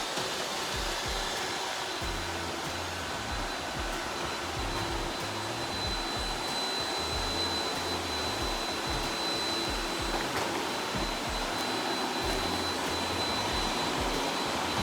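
Robot vacuum running steadily: a constant whir with a thin high whine through it, over background music with a steady bass beat.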